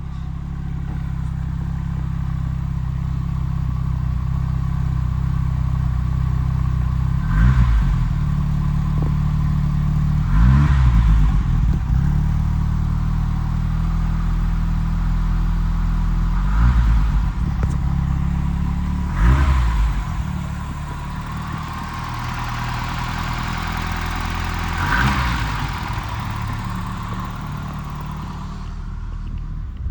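1988 BMW M3 Evolution II's 2.3-litre S14B23 inline-four idling on a cold start, heard at the exhaust, revved briefly five times, each rev rising and falling back to idle.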